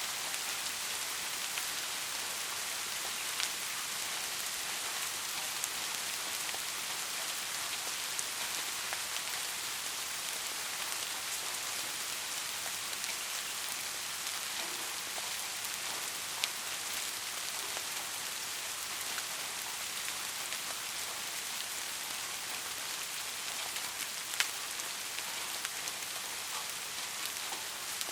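Steady rain falling on a roof, an even hiss with a few sharper, louder drop ticks standing out now and then. No thunder.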